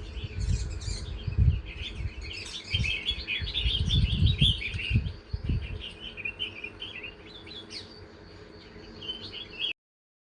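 Small birds chirping and twittering in quick, overlapping calls, over a low rumble that is heavy for the first five seconds or so and then fades. The sound cuts off suddenly near the end.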